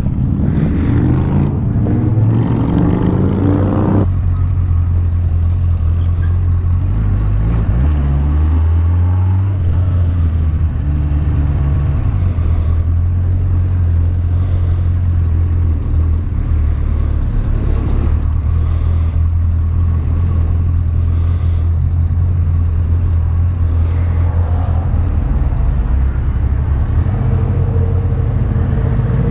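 Motorcycle engine under way while riding. The revs climb over the first few seconds and drop abruptly at a gear change about four seconds in. A steady low drone follows, with the revs shifting again around eight to ten seconds in.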